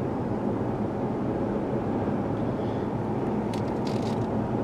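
Steady in-cabin drone of a 2016 Ford Explorer on the move, engine and road noise together, from a freshly repaired engine that runs pretty good. A few short clicks come about three and a half seconds in.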